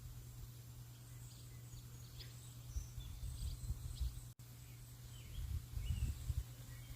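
Birds chirping in short, scattered calls over a steady hiss of rain, with uneven low rumbles that grow near the end. The sound cuts out for an instant a little past the middle.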